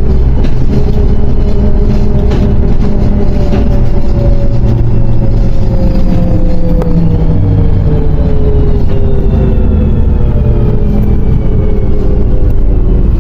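MAZ 105.065 city bus on the move, heard from on board: a heavy engine rumble with a drivetrain whine that slowly falls in pitch as the bus slows.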